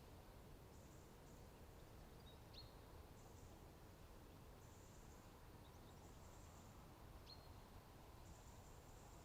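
Faint outdoor ambience: a low steady rumble, with short high buzzing trills every second or so and two brief high chirps, one about a quarter of the way in and one later on.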